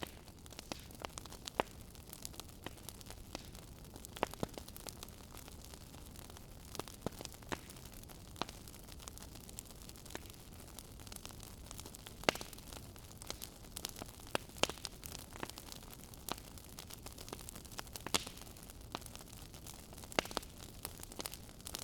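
Wood fire burning in a fireplace, crackling, with irregular sharp pops over a steady low hiss.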